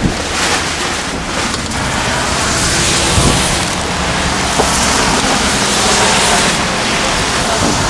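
Strong storm wind and rain blowing, with heavy gusts buffeting the microphone. A vehicle's engine runs underneath.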